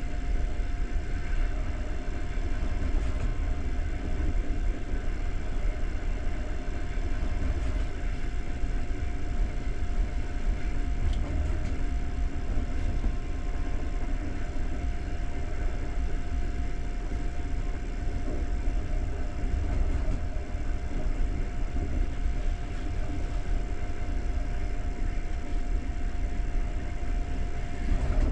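Passenger train running steadily at speed: a continuous low rumble of wheels on rails, with a thin steady whine above it.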